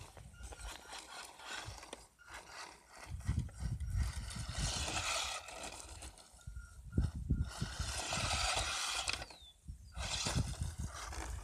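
ECX Torment RC truck's electric motor whining in repeated bursts of throttle, rising and falling in pitch, with its tyres scrabbling over the ground and low rumbling in between.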